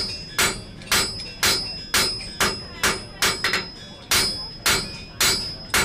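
Blacksmith's hammer striking hot iron on an anvil in a steady rhythm of about two blows a second, each blow followed by a high anvil ring.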